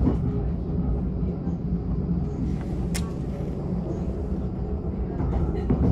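S-Bahn commuter train running at speed, heard from inside the carriage: a steady low rumble of wheels on the track, with one sharp click about three seconds in.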